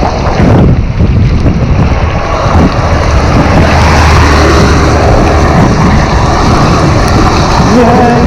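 Loud wind noise buffeting the microphone of an e-bike riding at about 20 mph in the rain. A steady low hum runs through the middle, and a pitched tone comes in near the end.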